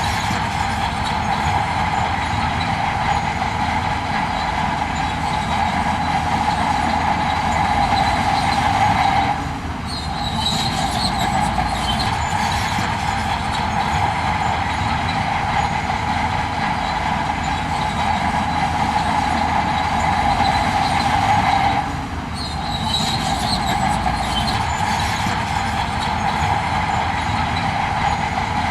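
Heavy earthmoving machinery working, with steady machine noise that dips briefly twice, about ten and twenty-two seconds in.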